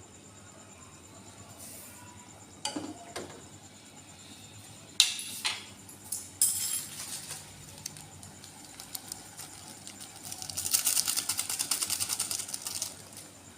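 Kitchen handling sounds: a few sharp clinks and knocks, then about two seconds of rapid crackling ticks near the end.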